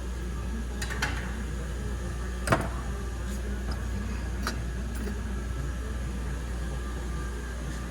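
Steady machine hum with a few sharp knocks, the loudest about two and a half seconds in.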